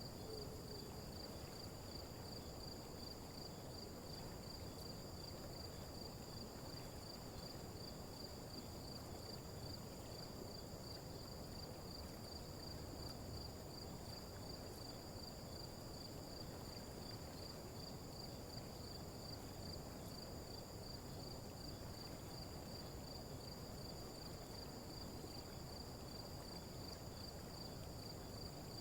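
Nature ambience of insects chirring: a steady, fast-pulsing high trill with a second steady high tone above it. Beneath it lies a faint, even low rush that does not change.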